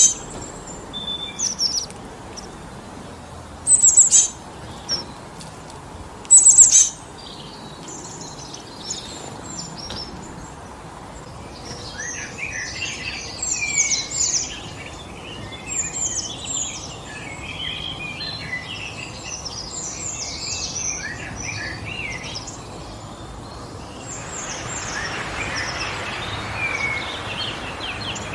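Songbirds calling over a steady rush of wind in the trees: a few loud, high, falling calls in the first seven seconds, then a busy chatter of many chirps from about twelve seconds on. Near the end a gust of wind swells up.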